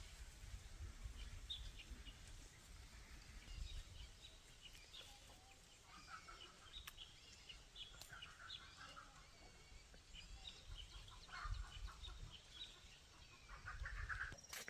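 Chickens clucking faintly in short, scattered calls over a low rumble.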